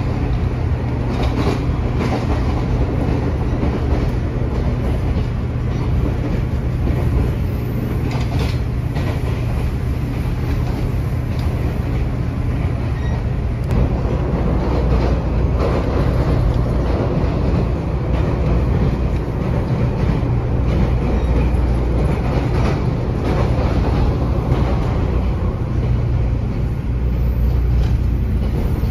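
Cabin noise of a JNR-type 455/413-series electric express train running at speed: a steady rumble of wheels on rail, with occasional clicks over rail joints.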